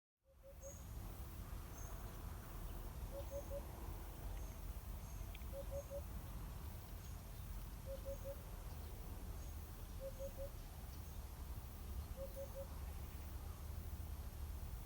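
Birds calling outdoors: a short high call repeated about once a second, and a lower quick three-note call every two seconds or so, over a steady low rumble.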